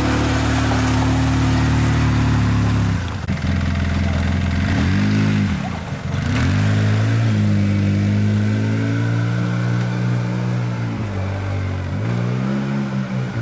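Motorboat engine running, throttled down and back up several times: its pitch drops sharply a few seconds in, swoops down and up twice, holds steady, then dips again near the end.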